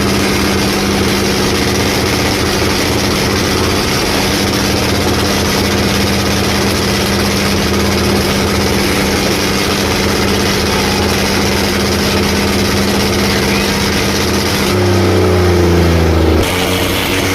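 Heavy tractor diesel engines running steadily and loudly. About fifteen seconds in, a louder, lower engine note takes over for a second and a half, then cuts off suddenly.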